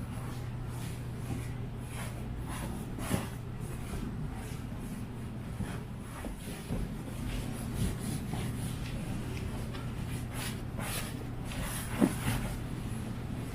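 A steady low hum with a few short knocks or clicks over it, the sharpest about three seconds in and near the end.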